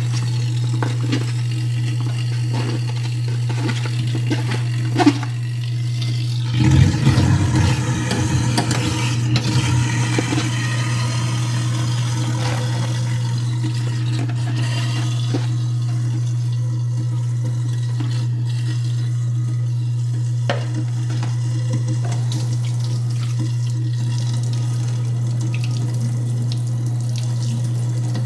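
InSinkErator garbage disposal running with tap water flowing into the sink: a steady motor hum under the splash of water. A louder burst of grinding and rattling comes from about 7 to 10 seconds in, as food waste goes through the grinder.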